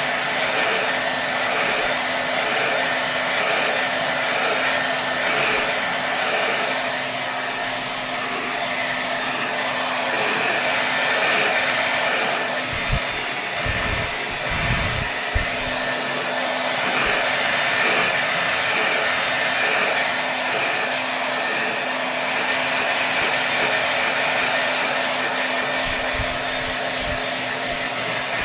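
Hair dryer blowing continuously at full power, a steady rush of air with a hum under it, swelling and easing gently every couple of seconds. A few low bumps come through in the middle and again near the end.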